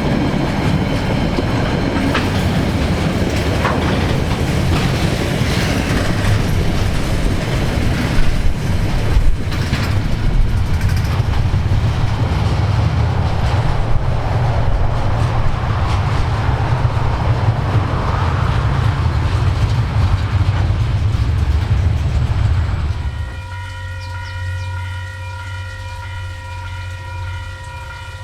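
KiwiRail freight train running past with a heavy low rumble and wheel clatter over the rail joints. About 23 seconds in the rumble drops away suddenly and a steady, held horn tone sounds to the end.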